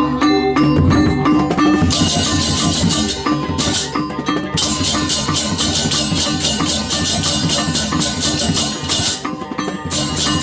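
Balinese gamelan playing: ringing metal gong-chime notes over drums, joined about two seconds in by fast, continuous clashing of small cymbals that breaks off briefly a couple of times.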